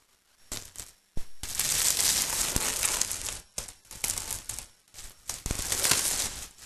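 Protective plastic film being peeled and crumpled off new headlight lenses, crinkling in several long pulls.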